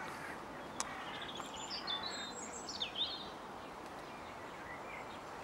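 A songbird singing a short run of high chirps and whistles a second or so in, over a faint steady outdoor hiss.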